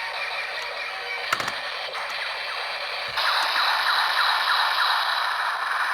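Electronic finisher sound effects from a Kamen Rider Zero-One DX toy's small speaker, following the Assault Wolf Progrise Key's finisher call. There is a click about a second in, and a louder noisy effect starts about three seconds in. The toy is running on low batteries.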